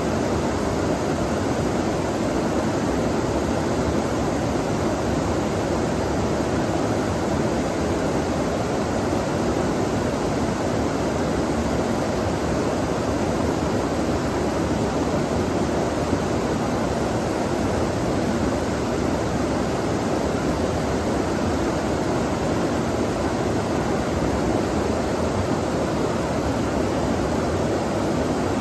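Steady rush of flowing water, an even, unbroken noise that neither rises nor falls.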